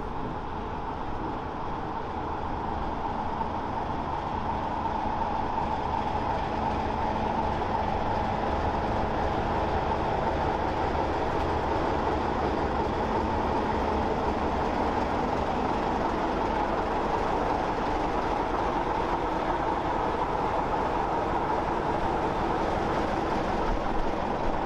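A passing train: coaches rolling by on the rails, then a diesel locomotive running close past. The sound grows louder over the first few seconds and then holds steady.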